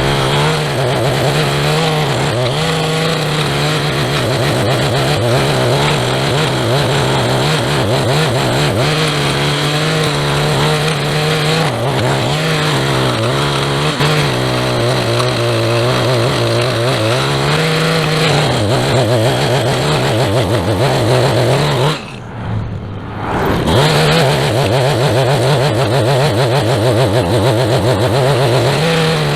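Small gasoline engine of a handheld lawn tool running at high speed, its pitch dropping and rising again and again as it takes load. About three quarters of the way through, the throttle is let off for a second before it revs back up.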